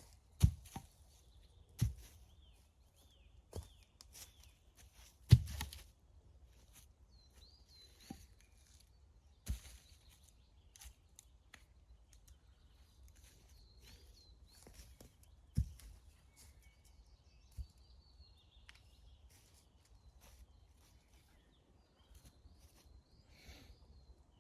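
Small birds chirping in woodland, with a few sharp knocks or snaps at irregular intervals, the loudest about half a second and five seconds in.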